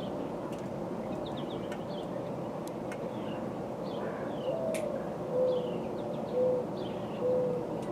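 Wild birds calling: short, falling chirps throughout, and from about halfway, four low, short cooing notes about a second apart, which are the loudest sounds.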